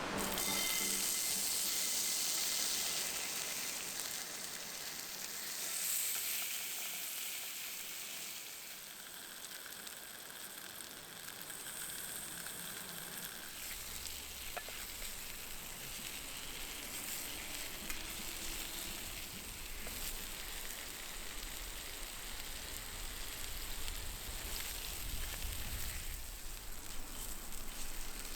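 Food sizzling in a wrought-iron Turk frying pan over a campfire: a steady frying hiss with a few small crackles.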